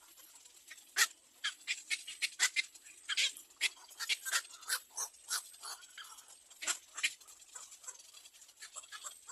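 Birds at a nest making an irregular run of sharp clicks and ticks, dense from about a second in until near the end, over a faint steady high whine.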